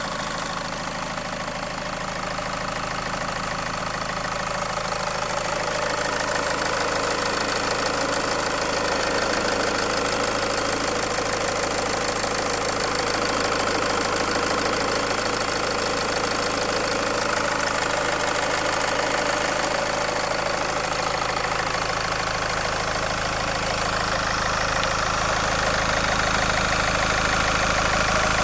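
Land Rover Freelander 2 engine running steadily, freshly fitted with new camshafts and a new camshaft timing chain. A deeper low hum comes in about two-thirds of the way through.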